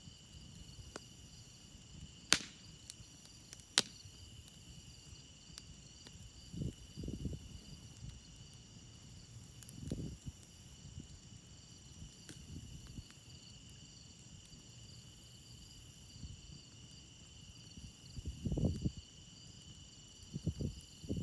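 Crickets chirring in a steady, continuous chorus, with two sharp pops from a crackling campfire about two and four seconds in. A few low, muffled bumps come near the middle and the end.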